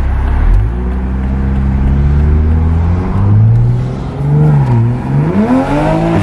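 Toyota Supra MK5's turbocharged 3.0-litre inline-six, stage-two tuned with a downpipe, accelerating under load, heard from inside the cabin. The engine note climbs in pitch, dips briefly about five seconds in, then climbs steeply again.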